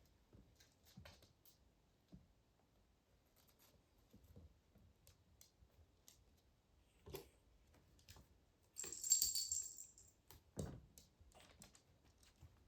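Kittens playing with their toys: scattered light taps and knocks, and a short high jingling rattle about nine seconds in.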